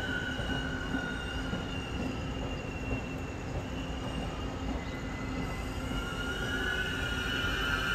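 Taiwan Railway Tze-Chiang express train moving through the station, with two high steady tones that dip slightly in pitch and then climb near the end, over a low rumble.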